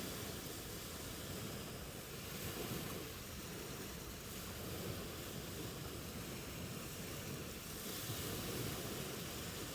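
Ocean surf washing onto a beach, a steady rush of waves that swells and eases, with a brighter wash about eight seconds in.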